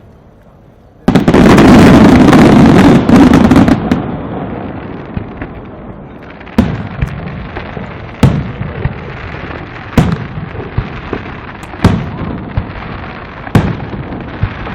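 Castillo fireworks display: about a second in, a sudden very loud burst of crackling that lasts some three seconds, then single loud bangs about every one and a half to two seconds over a fading crackle.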